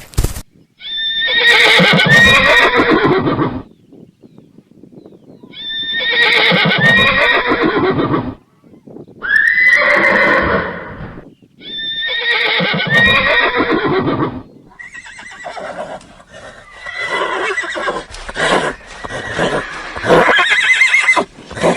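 A horse neighing: four long whinnies of about three seconds each, with short gaps between them. They are followed by a rougher, noisier stretch of whinnying broken by a few sharp knocks.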